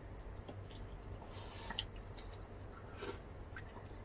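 Close-miked eating sounds: quiet wet chewing, lip smacks and soft clicks of people eating fried spring rolls (lumpiang shanghai) and pork caldereta, with a crisper burst about a second and a half in and a sharp click about three seconds in. A steady low hum sits underneath.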